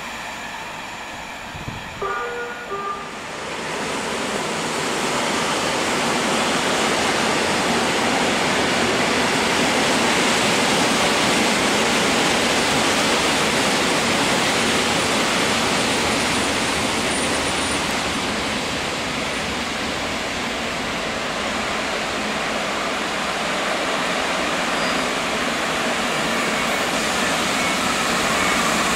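PKP EP07 electric locomotive hauling a TLK passenger train through a station, heard as a steady rushing of wheels on rails that rises about four seconds in and holds as the train draws near and passes.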